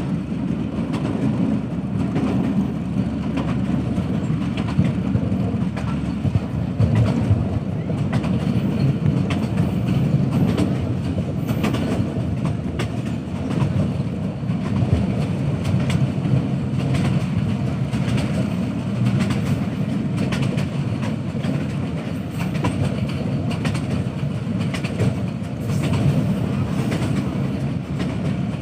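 Passenger train running along the track: a steady rumble of the coaches with the wheels clickety-clacking over the rail joints.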